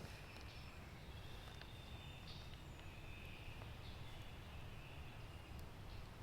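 Faint songbird calls in woodland: short, high, thin phrases repeating about once a second over a low rumble of wind.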